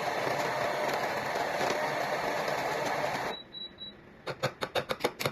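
Electric coffee grinder running steadily while grinding beans, then cutting off about three seconds in. A short high beep follows, then a quick run of sharp clicks near the end.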